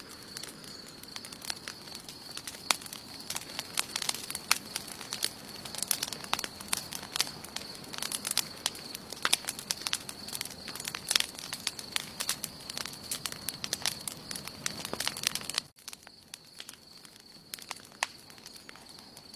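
Wood campfire crackling and popping, with many sharp snaps over a soft hiss and a faint steady high whine. About three-quarters of the way through the sound drops out for an instant, and the crackling is sparser afterwards.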